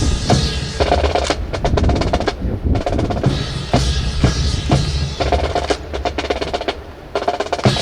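Marching snare and bass drums playing a fast drum cadence with rolls, accompanying a rifle drill. The drumming briefly drops off near the end, then resumes.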